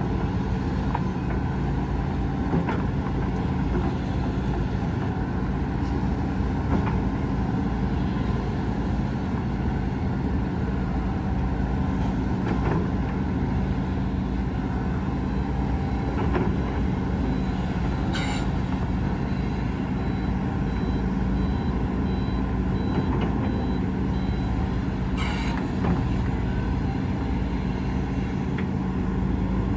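Heavy diesel earthmoving machinery, excavator and dump trucks, running steadily under a constant low engine drone. A faint repeating high beep comes in midway, and two short sharp hisses come several seconds apart.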